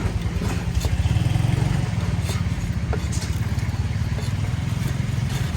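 A small engine running with a low, steady rumble that swells a little about a second in, with a few light clicks over it.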